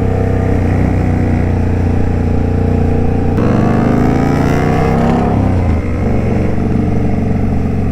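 Indian Scout Bobber's V-twin engine running under way, heard from the rider's seat. About three seconds in the pitch shifts, climbs as the bike accelerates, then eases back down.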